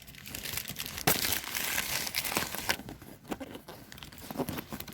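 Crinkling and rustling of something being handled at close range, with scattered small clicks and crackles.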